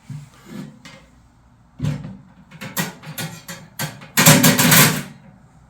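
A series of sharp knocks and clatter, ending in a louder clattering burst about four seconds in.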